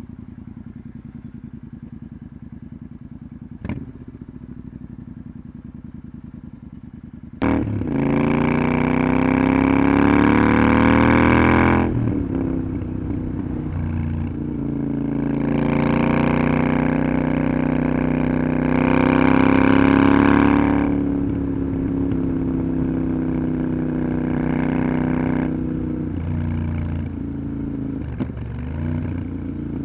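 Parallel-twin motorcycle engine idling steadily, with a single click about four seconds in. Then the bike pulls away with a sudden jump in loudness and accelerates: the engine note rises, drops at a gear change, and climbs again, with wind rushing over the microphone at speed.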